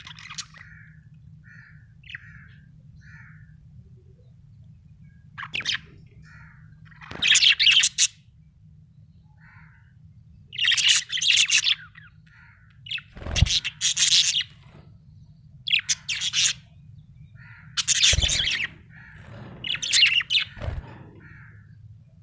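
Budgerigar chirping in short, high-pitched bursts of about a second, some eight in all, over a steady low hum.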